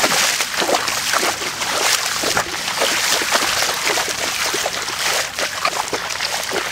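Steady sloshing and splashing of legs wading through knee-deep floodwater in a street, with irregular splashes and trickling drops.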